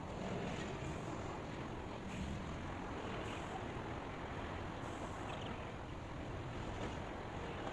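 Steady rushing white-noise ambience, like wind or surf, holding an even level throughout.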